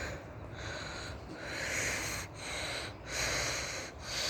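Heavy breathing close to the microphone: a person breathing hard in and out, about one breath sound a second.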